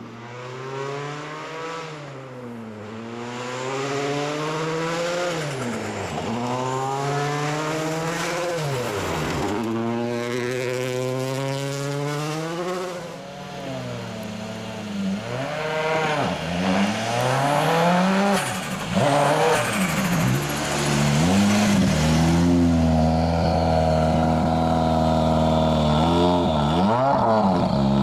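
World Rally Car's turbocharged four-cylinder engine driven flat out, its pitch climbing and dropping sharply again and again through gear changes and lifts, louder in the second half.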